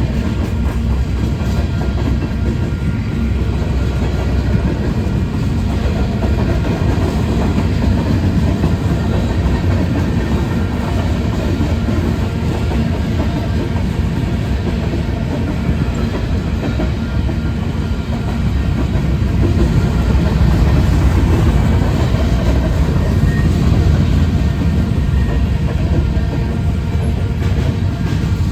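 Freight train cars rolling past on the rails, a steady loud rumble that swells a little past the middle.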